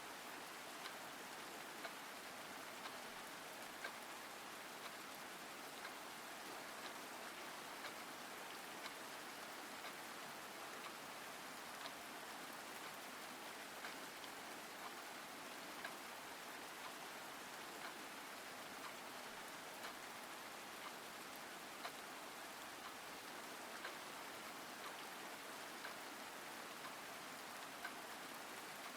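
Steady rain falling, with faint sharp drip-like ticks about once a second.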